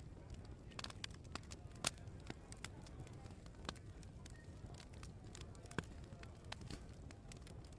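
Open wood fire crackling: irregular sharp pops and snaps, the loudest about two seconds in, over a low steady background rumble.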